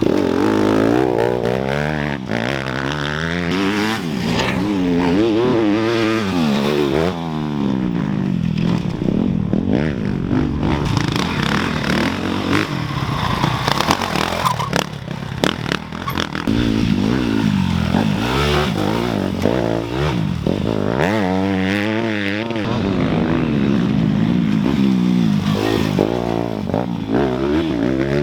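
Dirt bike engines revving hard, the pitch climbing and dropping over and over as the riders work the throttle and shift, with scattered clattering knocks.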